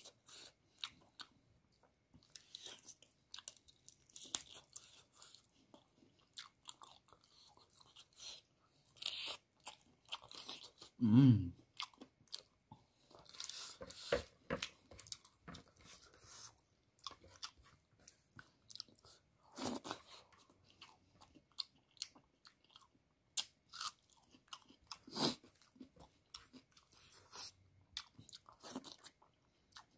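Close-up chewing and crunching as a person eats chicken on the bone, with many short crunches, clicks and lip and finger smacks. About eleven seconds in there is a louder, short, low vocal sound.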